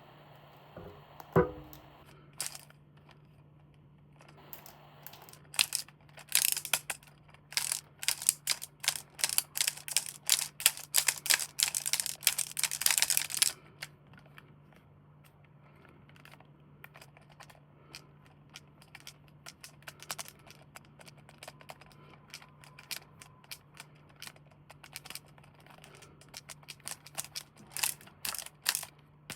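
Toy packaging being handled and opened: a single knock about a second in, then several seconds of dense, rapid crackling and clicking that thins out to scattered clicks and rustles.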